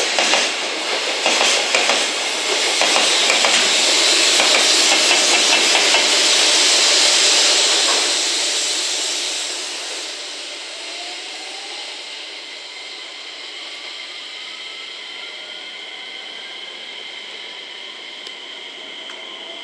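Container freight train passing: the wagons' wheels clatter over the rail joints, then the rear banking electric locomotive, a JR Freight EF210 (No. 305), goes by with a loud rushing noise. The sound then fades as it pulls away, leaving a steady rumble with a faint rising whine.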